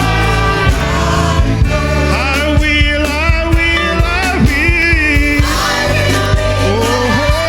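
Live gospel praise music: a band with bass and drums, and singers holding long, wavering notes without clear words.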